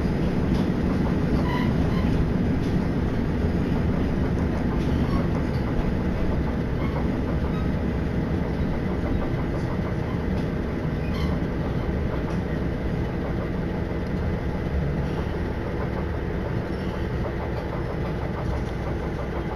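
Inside a diesel railcar running on the Aizu Line: a steady low rumble of the engine and wheels on the track, with scattered faint clicks from the rails, getting gradually a little quieter.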